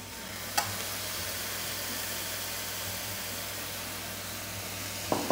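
Soy sauce and textured vegetable protein sizzling in a hot wok, a steady frying hiss. There is a sharp click about half a second in and a short knock just before the end.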